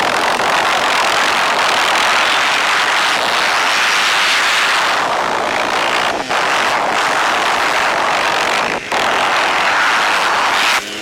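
Engines of vintage motocross motorcycles running hard, a loud steady drone that drops out briefly twice.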